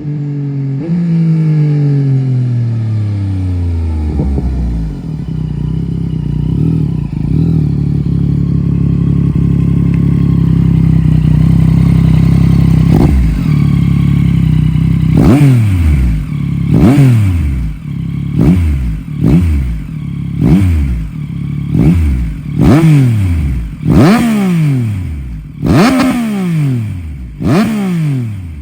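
Yamaha Tracer 9 GT+ inline-three engine through a full Akrapovic race exhaust with the baffle removed. The pitch first falls away, then the engine holds a steady note. From about halfway it gives a quick run of sharp revs, roughly one a second, each dropping away fast.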